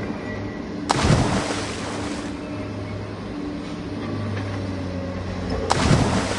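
Two loud water splashes, about a second in and again near the end, as the toy backhoe loader churns the muddy puddle. Under them runs a steady low engine drone.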